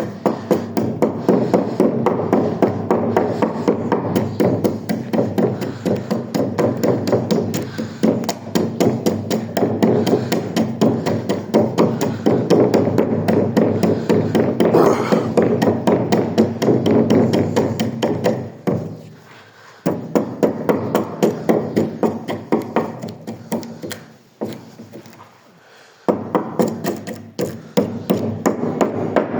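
Rapid, repeated knocking of a tool on wood as the damaged wood of a door is cleaned out, with two brief pauses about two-thirds of the way through.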